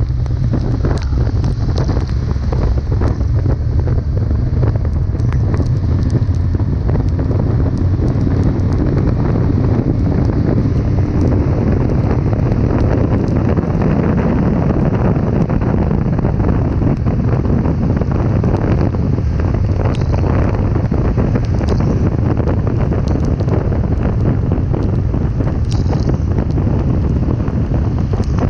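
Wind buffeting the microphone: a loud, steady low rumble that goes on without a break.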